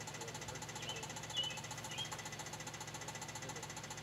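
A machine running steadily with a fast, even, rattly beat, like an engine idling. A few faint high chirps come through about a second in.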